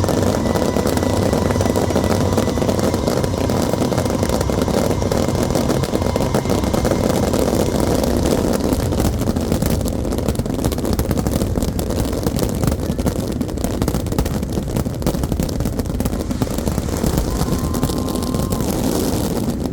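Aerial fireworks in a dense continuous barrage, a packed rattle of crackles and bangs with no break.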